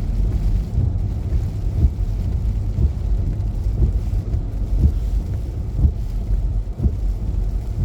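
Low, steady rumble of a car driving on a snowy road, heard from inside the cabin, with a few short low knocks.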